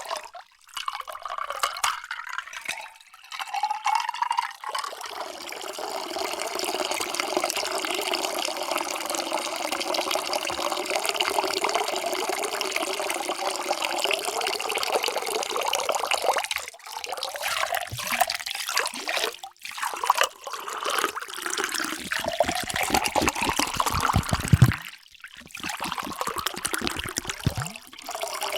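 Water pouring into a container in several separate pours with short breaks between them; the longest is a steady pour of about ten seconds.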